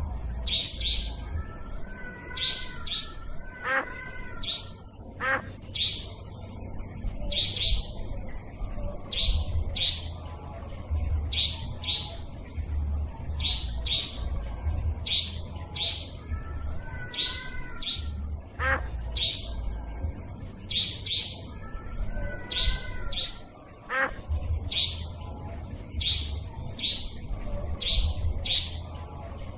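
Nightjar (burung cabak) calls played as a bird lure: short, sharp, high-pitched notes repeated in quick clusters of two or three every second or two, over a low hum.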